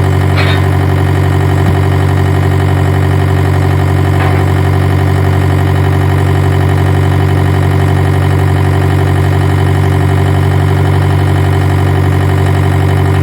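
A loud, steady, unchanging machine hum, like an engine idling, with a couple of faint short hisses over it.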